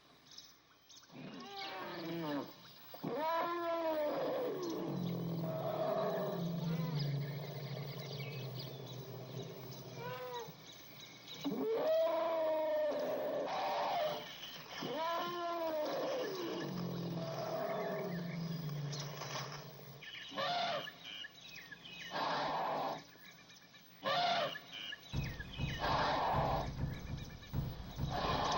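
Several long animal calls, each rising and then falling in pitch, followed near the end by rougher, noisier calls and a low rumble.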